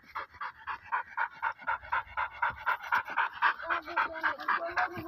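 Pit bull panting hard and fast, about four to five breaths a second.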